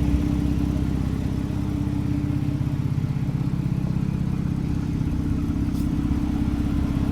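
2017 Porsche 911 GTS's twin-turbo flat-six idling steadily, breathing through high-flow cat-bypass downpipes.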